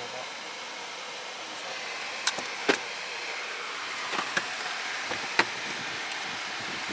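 Steady road noise inside a moving car, with a handful of sharp clicks spread through the middle.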